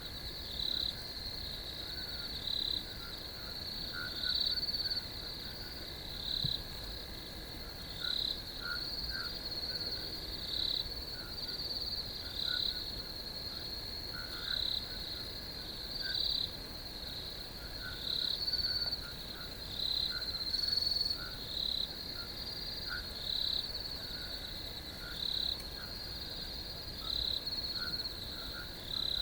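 Crickets chirping in a steady high-pitched chorus, with louder chirps standing out every couple of seconds.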